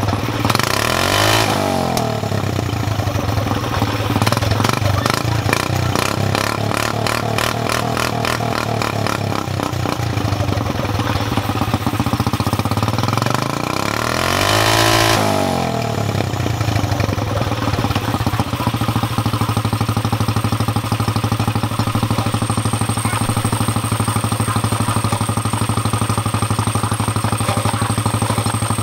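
Go-kart engine running through a motorcycle exhaust, its pitch dropping and climbing back up twice, once about a second in and again around fifteen seconds, then holding steady.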